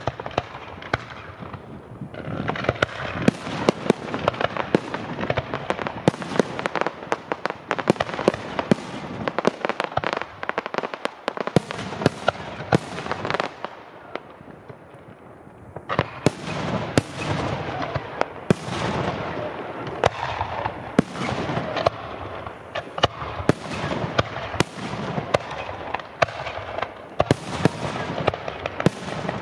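Fireworks going off: many firecracker and firework bangs and crackles in rapid, overlapping succession. They ease off briefly about halfway through, then pick up again.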